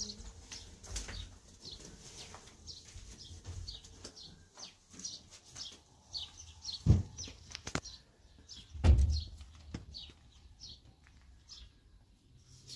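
Small birds chirping over and over, short high notes throughout. Two heavy dull thumps stand out, about seven and nine seconds in, with a few lighter knocks between.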